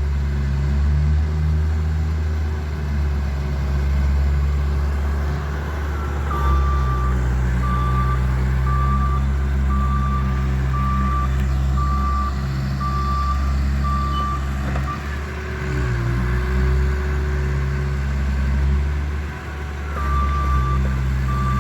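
Bobcat loader's engine running steadily under work, its pitch dipping briefly about two thirds of the way in. Its reversing alarm beeps about once a second through the middle stretch, stops, and starts again near the end.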